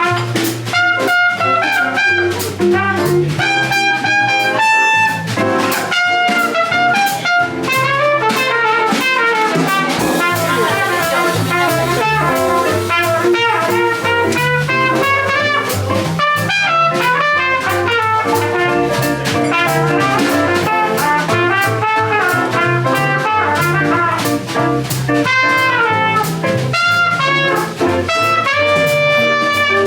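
Live jazz combo playing: a horn carries a running melodic line over a bass line and a drum kit with cymbals keeping time.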